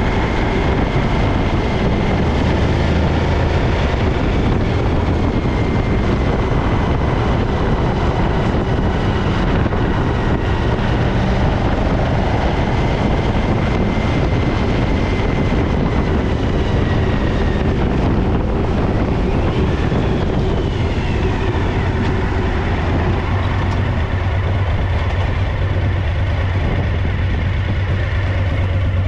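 Suzuki DL1000 V-Strom's V-twin engine running steadily, with a misfire on its rear cylinder.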